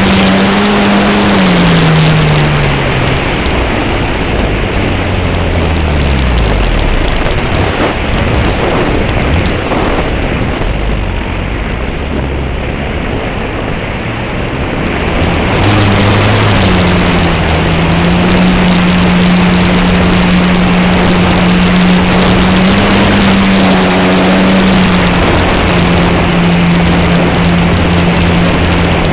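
Electric motor and propeller of an E-flite Cherokee 1.3m RC plane, heard from its onboard camera over loud wind rush. The motor's hum falls in pitch and fades away over the first several seconds as the throttle is pulled back, leaving only wind noise for a while, then the hum comes back about halfway through and runs steady.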